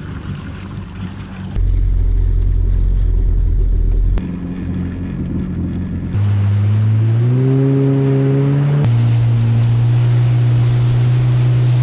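Yamaha WaveRunner jet ski engine running under throttle, its pitch climbing as it accelerates about seven to nine seconds in. The sound changes abruptly several times.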